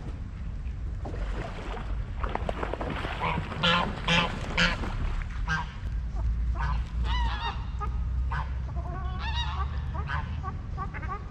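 Waterfowl calling over and over in short, harsh calls, loudest about four seconds in, with a low steady rumble underneath.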